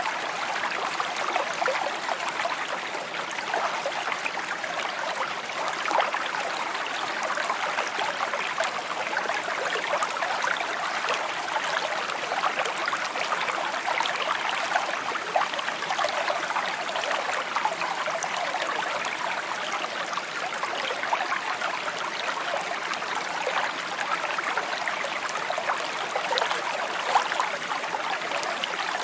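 Small stream babbling and trickling steadily over rocks, with many small splashes and gurgles.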